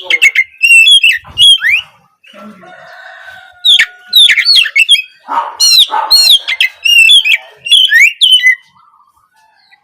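Oriental magpie-robin singing loud, quick whistled phrases with sharp up- and down-slurred notes and harsher chatter notes. It sings in two bursts with a short pause between them, then falls quiet near the end. This is lure song (pancingan) meant to set a young magpie-robin singing.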